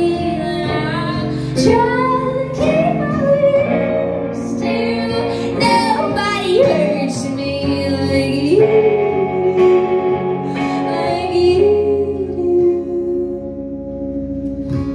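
Live band music with a singer holding long, gliding notes over the instruments.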